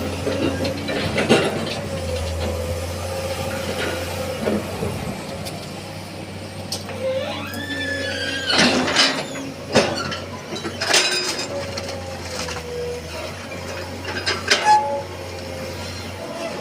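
Excavator engine running steadily under a hydraulic whine that slides up and down in pitch, with several knocks and clatters of wooden pallet timber being handled, the loudest about nine and fifteen seconds in.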